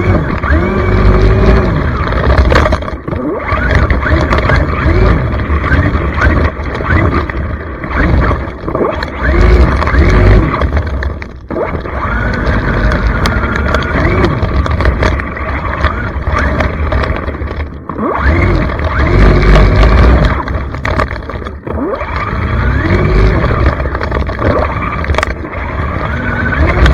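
Electric motor of a Traxxas Mini XRT RC truck whining up and down in pitch with the throttle, over the rumble and scrape of its tyres on sand. The sound cuts off for a moment twice.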